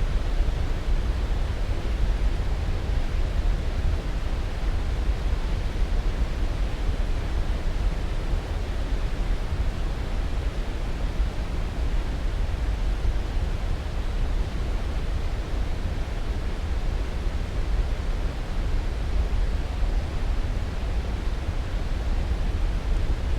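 Steady, unbroken rushing noise, strongest in the low end and thinning toward the highs, with no changes: a continuous sleep-aid noise track.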